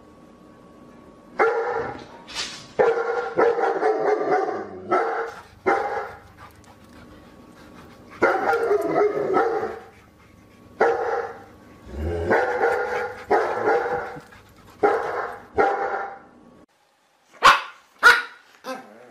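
A dog barking over and over in uneven clusters of barks, then a few short, sharp barks near the end.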